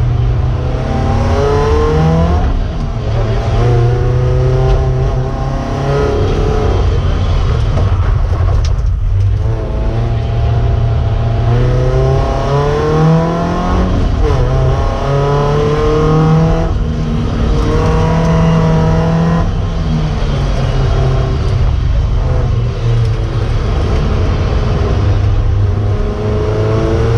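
Competition car engine heard from inside the cabin, revving up again and again with rising pitch and dropping back at each gear change or lift of the throttle.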